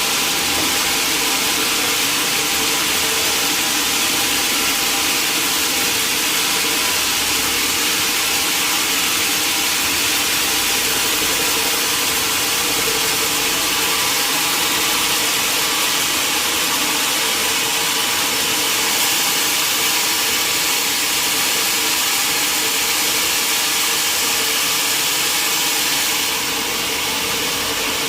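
Sawmill machinery running steadily: a constant hissing whir over a steady hum, with no cutting strikes. It drops slightly in level near the end.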